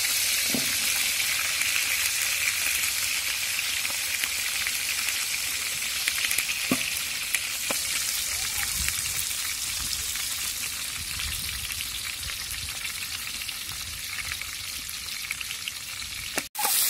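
Banana-leaf-wrapped fish parcels frying in oil in an aluminium pot, a steady sizzle with a few faint clicks. The sound cuts out briefly near the end.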